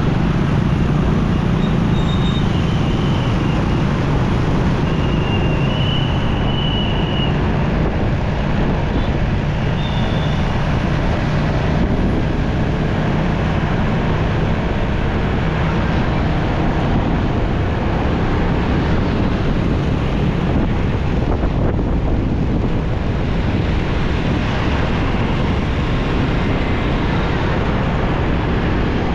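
Motorcycle riding in heavy city traffic: a steady mix of engine and road noise, dense and unbroken, with a few brief high-pitched beeps in the first ten seconds or so.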